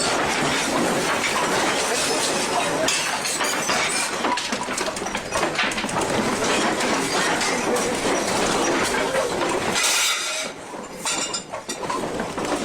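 A building shaking in a major earthquake: a continuous rattling din of clinking glass and knocking objects with a rumble beneath. It eases for a couple of seconds near the end.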